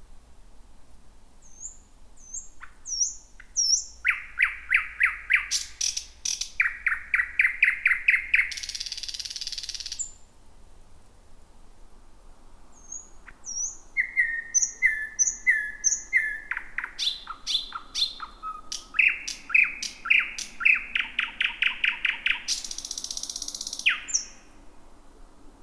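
Thrush nightingale singing two song phrases, about ten seconds each with a pause between. Each opens with thin high whistled notes, builds into fast runs of loud repeated notes, and ends in a harsh rattle.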